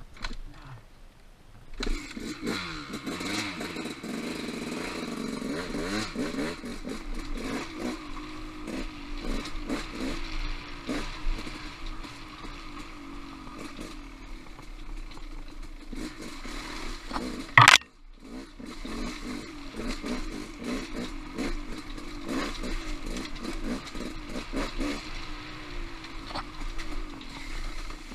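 Trail motorcycle engine starting about two seconds in, then running with the revs rising and falling, with clattering and knocks from rocks along the way. A single very loud sharp crack comes a little past halfway, with a brief drop in sound just after, before the engine carries on.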